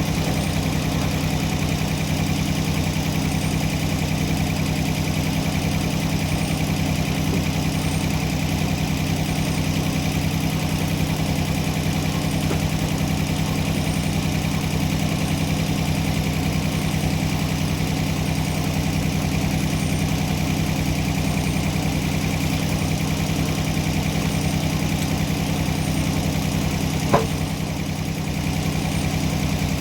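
Sawmill engine running at a steady speed, with no change in pitch or load. One brief sharp click near the end.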